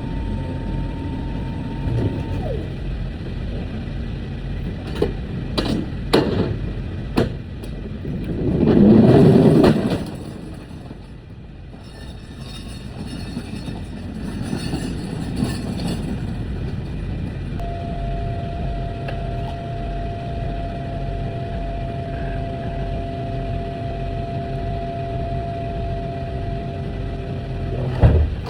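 Truck engine running steadily with a low rumble. A few sharp clicks come around five to seven seconds in, then a loud surge of noise lasts about two seconds at around nine seconds in.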